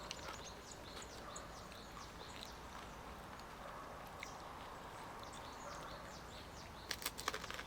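Faint outdoor ambience with scattered small bird chirps, and a few sharp clicks about seven seconds in.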